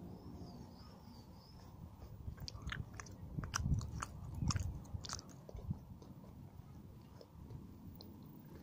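Chewing and biting chocolate Easter egg shell, with a run of crisp crunching bites in the middle.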